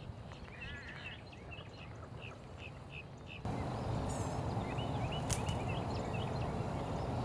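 Birds calling: a quick series of short repeated calls. About halfway through the sound jumps to a louder steady background rush, with a few more bird calls over it.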